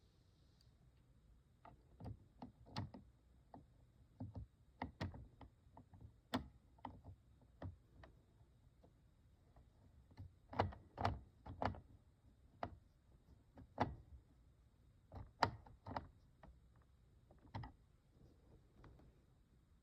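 Irregular clicks and knocks of the plastic toy aquarium's parts being handled and fitted, some single and some in quick clusters, starting about two seconds in and stopping a couple of seconds before the end.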